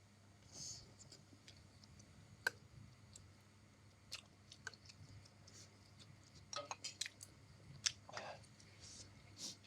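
Faint eating sounds: chewing, with scattered sharp clicks and short soft hissy bursts at irregular moments, over a steady low hum.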